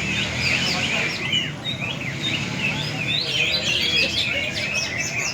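Several caged green leafbirds (cucak ijo) singing at once in a dense, unbroken tangle of quick chirps and whistles, over a low crowd murmur.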